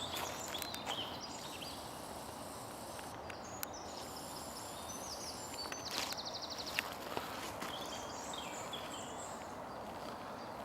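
Songbirds singing: short whistled phrases and a rapid trill about six seconds in, over a steady rush of wind and rolling noise, with a few sharp clicks.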